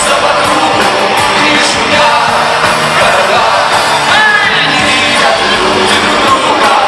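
Live rock band playing at full volume with a singer, amplified through a club PA.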